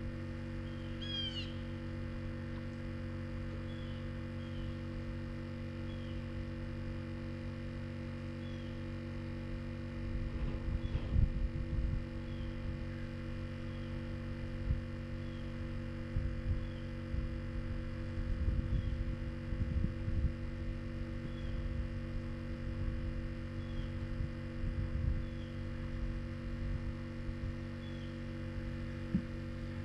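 A bird calling, a short high chirp repeated every second or two, with a fuller call about a second in, over a steady low hum. From about ten seconds in, irregular low rumbling comes and goes, loudest near eleven seconds.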